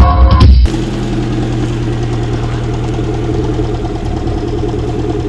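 Classic Mini's four-cylinder engine idling steadily, after intro music that cuts off abruptly under a second in.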